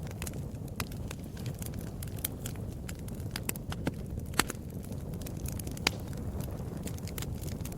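Wood fire crackling in a fireplace: irregular small pops and snaps over the steady low rumble of the flames, with a sharper pop about four and a half seconds in and another near six seconds.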